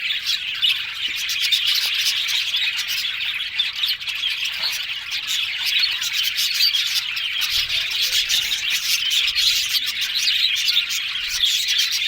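Budgerigars chirping and chattering continuously, a dense, busy warble of many short chirps with occasional squawks.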